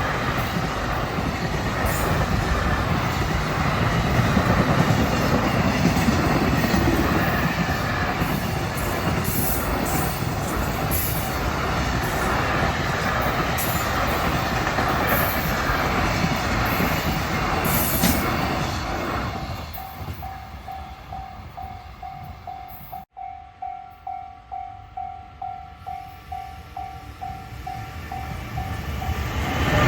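Freight train passing at speed, its wheels clattering and rumbling on the rails, dying away about two-thirds of the way through. Then a steady warning tone pulses about twice a second, and the next train's noise starts to build near the end.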